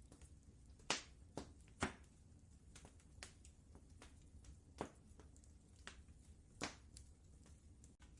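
Wood fire crackling in a fireplace: irregular sharp pops and snaps, the loudest about a second and two seconds in, over a faint low rumble.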